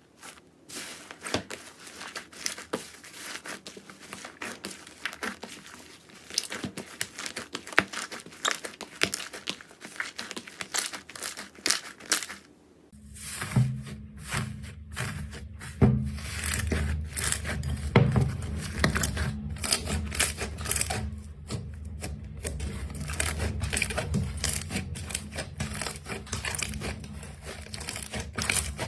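Slime being squeezed and stretched by hand, giving dense crackling, popping clicks. Partway through, the crackling carries on with a low hum underneath.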